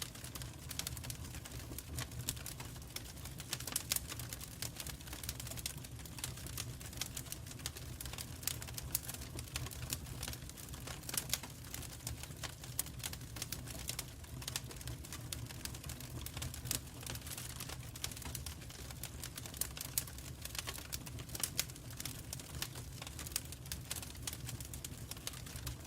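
Wood fire in a fireplace crackling: irregular sharp snaps and pops over a low, steady rumble.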